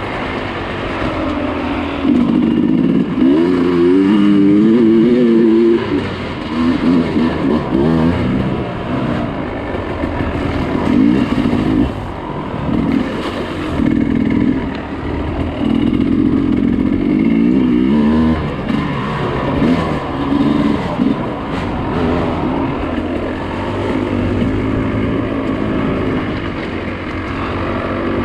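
Dirt bike engine riding off-road, revs rising and falling again and again as the throttle is worked, with louder pulls a few seconds in and again about midway.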